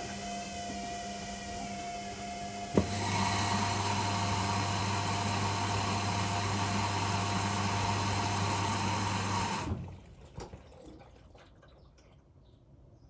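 Washing machine mid-program: a quieter motor hum, then a click about three seconds in, after which water rushes through the machine with a steady electric hum for about seven seconds and cuts off suddenly, leaving a few faint ticks.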